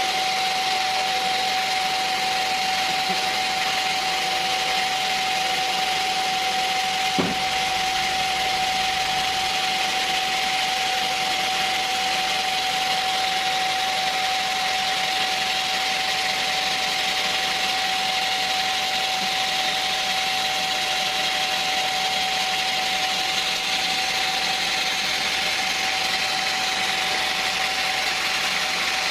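Sawmill machinery running steadily with a constant whine, and a single sharp knock about seven seconds in.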